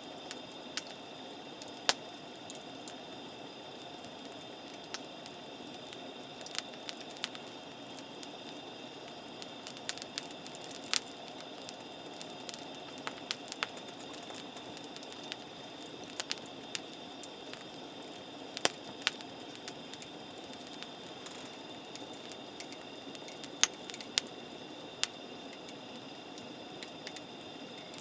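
Wood campfire crackling, with irregular sharp pops at uneven intervals, a few of them much louder than the rest.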